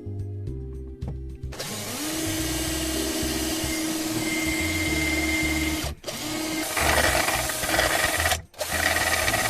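Electric drill boring a hole, spinning up about two seconds in and running in three stretches with short stops near six and eight and a half seconds, over background music.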